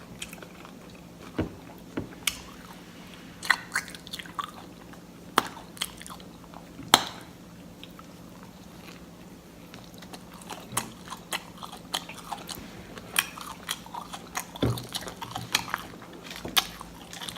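Close-miked chewing and biting into Subway sandwiches, with irregular wet smacks and soft crunches, over a faint steady low hum.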